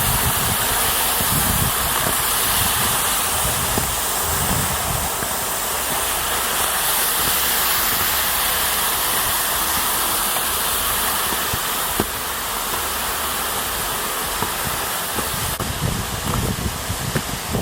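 Waterfall running: a steady, even hiss of falling water, with a few brief low rumbles on the microphone about a second in, around four seconds in and near the end.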